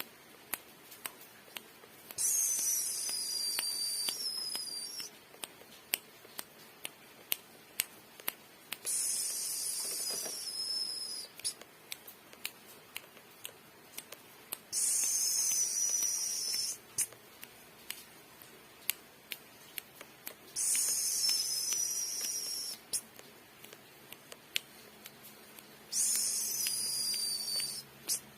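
Orange-headed thrush singing: five high, warbling phrases of two to three seconds each, several seconds apart, with many sharp clicks between them.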